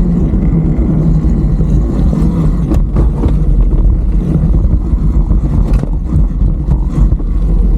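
Riding noise of a Talaria Sting R electric dirt bike on a dirt trail: a loud, steady low rush of wind on the microphone and tyre rumble, with no engine note, broken by a few sharp knocks from rocks underneath.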